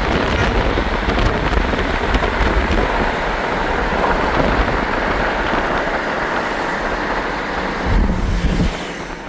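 Steady rushing wind and road noise inside a moving car, with a low rumble of wind buffeting the microphone. A brief louder rumble comes near the end, then the noise eases a little.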